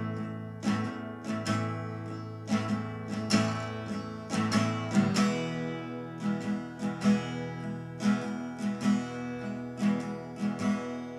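Acoustic guitar strummed in a steady rhythm with no singing, changing chord about five seconds in.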